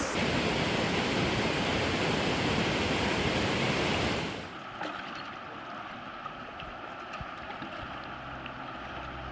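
Waterfall, its rushing water loud and steady for about four seconds, then cut off suddenly to a quieter, steady water hiss.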